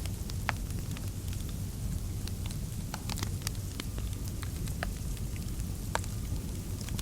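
Wood fire crackling in a fireplace: scattered sharp pops, a few a second, over a steady low rumble.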